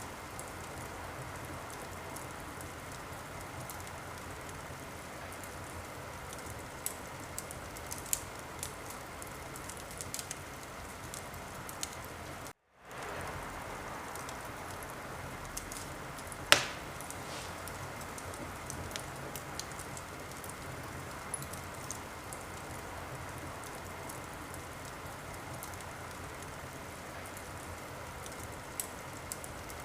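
Fire crackling in a fireplace: a steady hiss with scattered small pops, and one sharp, much louder pop a little past halfway. The sound cuts out completely for a split second a few seconds before that pop.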